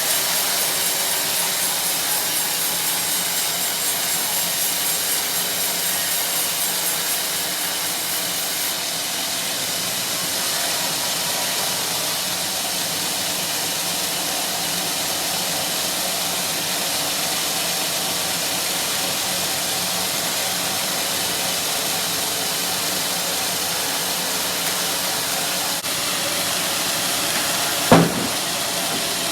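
Sawmill saw cutting through a teak log, a steady, continuous sawing noise from the running machine. A single sharp knock comes near the end.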